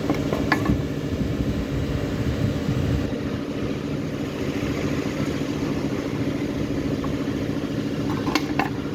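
Maruti Suzuki Swift Dzire petrol engine idling steadily, with a couple of short clicks about half a second in and again near the end.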